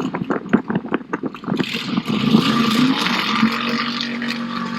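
Big-block Chevy V8 in a Smart car drag car, idling choppily at first, then picking up about a second and a half in and holding a louder, steady note.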